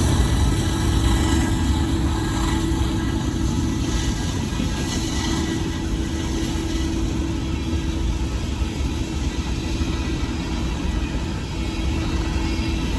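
Coal train's cars rolling past: a steady rumble with a faint steady whine over it.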